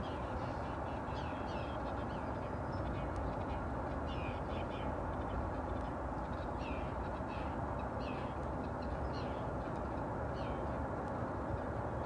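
Birds squawking: short repeated calls, about one or two a second, over a steady background rumble.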